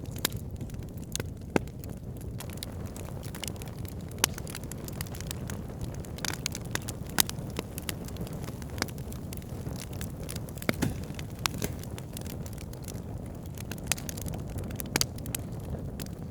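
Wood campfire burning: irregular sharp crackles and pops, a few each second, over a steady low rumble of the flames.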